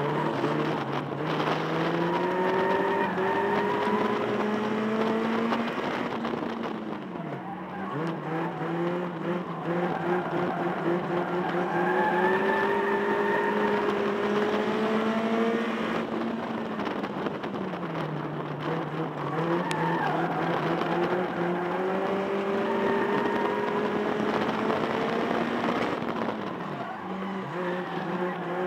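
Banger racing car's engine heard from inside the cabin, working hard under racing. Its note climbs for several seconds and then falls away sharply, three times over.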